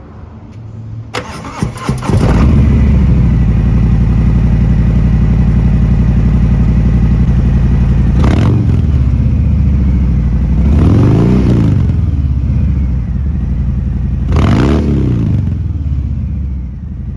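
2020 Harley-Davidson Fat Bob's V-twin engine being started: about a second of starter cranking, then it catches and settles into a steady idle. The throttle is blipped three times, each a quick rise and fall in revs.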